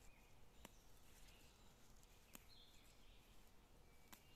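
Near silence: faint distant bird chirps, with three faint sharp clicks spaced a little under two seconds apart.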